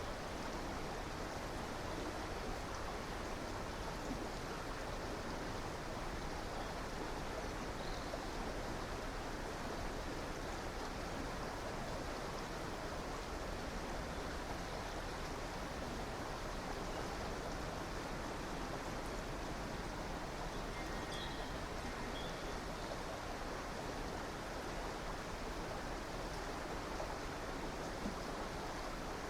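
A river or stream of running water, a steady, unbroken rushing, with a few faint, brief bird chirps over it.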